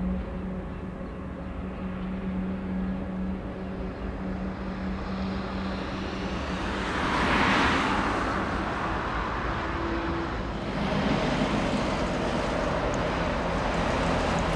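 Jet aircraft engine noise: a steady low hum, with a swell of rushing noise about seven seconds in and a broader rush again from about eleven seconds.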